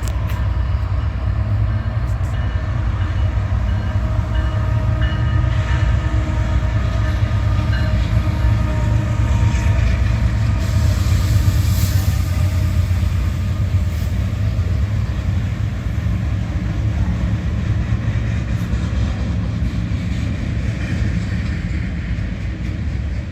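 Union Pacific freight train passing: a loud, steady heavy rumble of the train on the rails, with held tones riding above it over roughly the first half.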